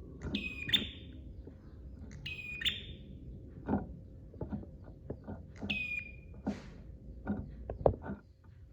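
Prenjak (prinia) calling: three short, sharp, high call phrases a couple of seconds apart, over a faint steady hum and scattered soft low knocks.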